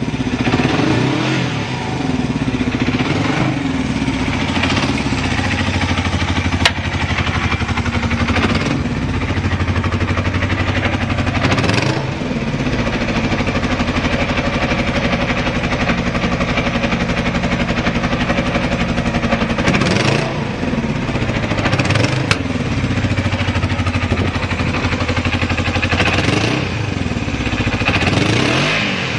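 Yamaha XS400 parallel-twin engine idling, its throttle blipped several times so the revs rise and fall, with a long stretch of steady idle in the middle. The idle is stable, with no abnormal noise.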